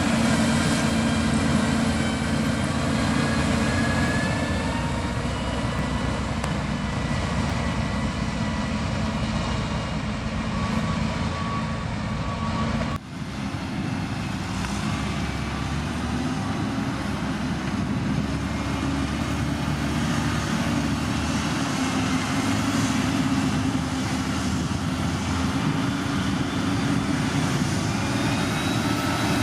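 Heavy diesel construction machinery running steadily, an engine drone with a faint rising and falling whine above it. The sound breaks off abruptly about 13 seconds in and carries on with a slightly different tone.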